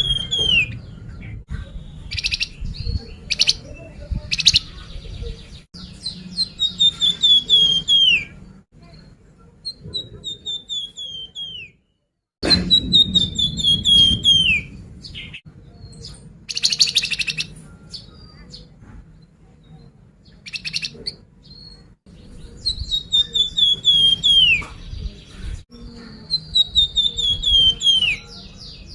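Song of the bird kept in Indonesia as the 'flamboyan', played as a lure call: stepped whistled phrases, each falling in pitch over about two seconds, repeated every few seconds, with short sharp chirps between them.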